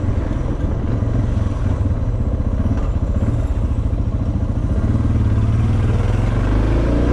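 Suzuki DR650's single-cylinder four-stroke engine running steadily at low speed as the motorcycle is ridden through slow traffic.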